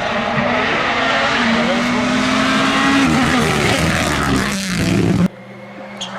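Rally car engine running at high revs at stage speed, its pitch climbing and then dropping near the middle. It cuts off abruptly about five seconds in, and a quieter steady engine tone follows.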